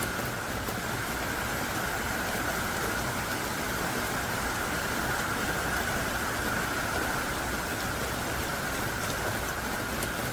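Heavy rain pouring down steadily: a dense, even hiss of a downpour with no pauses.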